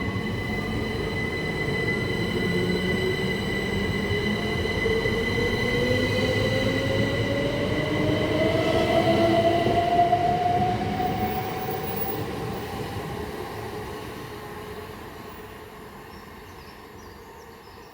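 Class 375 Electrostar electric multiple unit pulling away from the platform, its traction motors whining and rising in pitch as it accelerates. It is loudest about ten seconds in, then fades as the train leaves.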